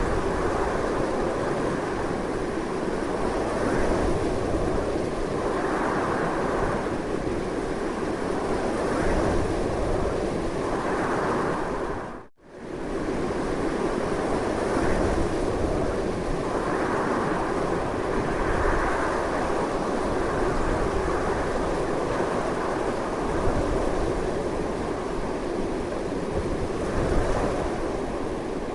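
Strong, gusting wind as a steady, loud rushing noise that swells and eases slowly. About twelve seconds in it fades out and back in within half a second, like a loop splice in the recording.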